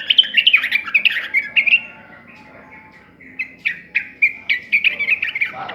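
Yellow-vented bulbul (trucukan) singing: two bouts of quick, bright chirping phrases with a short pause between them.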